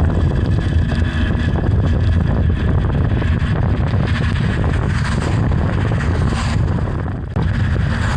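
Wind buffeting the microphone of a moving bicycle camera, a loud low rumble with a hiss above it, dipping briefly about seven seconds in.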